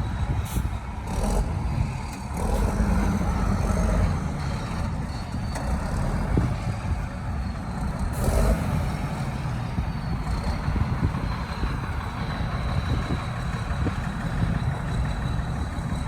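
Heavy diesel earthmoving machinery running with a steady low rumble, with a few short hissing bursts in the first three seconds and again about eight seconds in.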